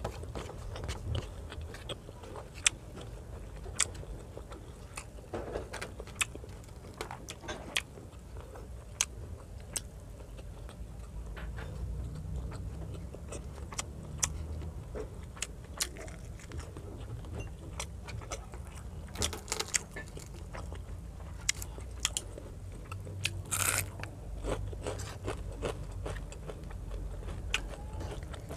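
A person chewing a mouthful of rice and fried fish close to the microphone, with many small sharp clicks and smacks from the mouth throughout.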